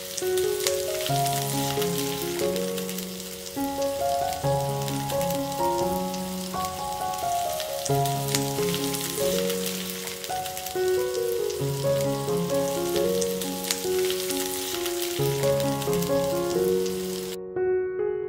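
Baby onions and green capsicum frying in hot oil in a pan: a steady sizzle dense with crackling pops that cuts off abruptly near the end. Gentle background music with melodic keyboard notes plays throughout.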